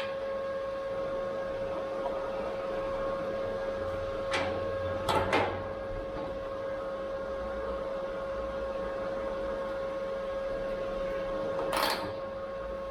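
A steady machine hum holding one pitch, with a few short knocks and scrapes: one about four seconds in, two close together about a second later, and one near the end.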